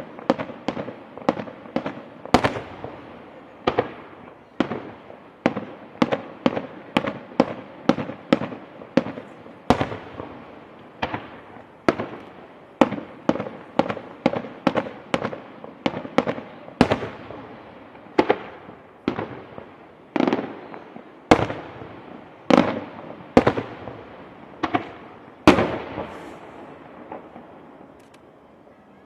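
Aerial fireworks shells bursting in a fast series of sharp bangs, about two to three a second, each trailing off in a rolling echo. The bangs grow sparser past the middle and die away near the end.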